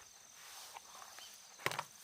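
Insects trilling steadily in high pitch, with a short sharp double knock near the end.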